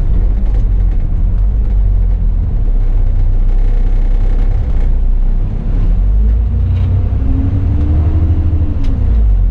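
Bus engine running with a low rumble; from about six seconds in, its note rises and then falls again as the bus accelerates.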